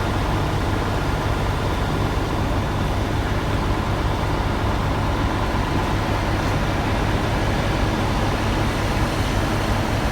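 Heavy truck engine running steadily at idle, a low even hum with no revving.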